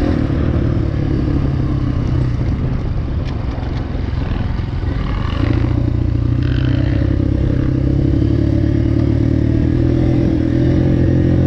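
Dirt bike's single-cylinder engine running steadily, most likely idling. It gets louder and fuller about halfway through.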